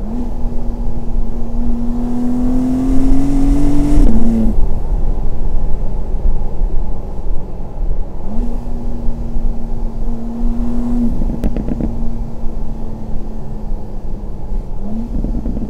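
BMW M2 G87's twin-turbo straight-six pulling on the move, its note rising slowly under acceleration, then dropping sharply about four seconds in as the driver lifts off or shifts. It picks up again, falls away a bit past the halfway point with a short burst of exhaust crackles, and climbs once more near the end.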